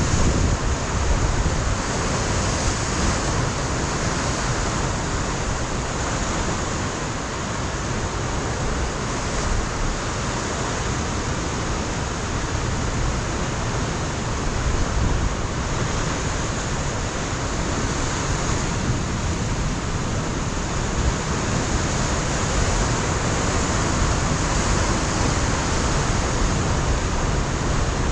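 Ocean surf breaking and washing against a rocky coastline, a steady dense roar with gentle swells, mixed with wind on the microphone.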